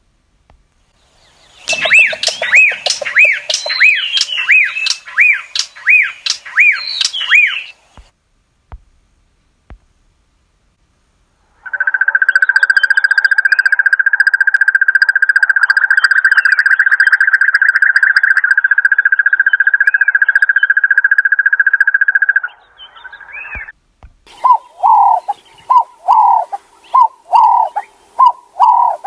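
Recorded calls of African birds played one after another: a series of arching, upswept notes about two a second, then a long, even trill lasting about ten seconds, then a run of lower repeated notes about two a second.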